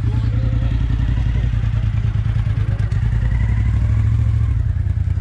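A motorcycle engine running steadily close by.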